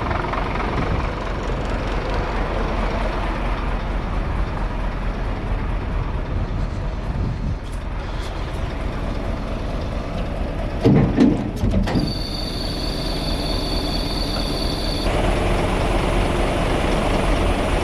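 Scania truck engine idling with the PTO engaged, while the car transporter is being set up. A few light clicks, a cluster of loud metallic knocks about eleven seconds in, then a steady high-pitched tone for about three seconds before the running noise grows louder.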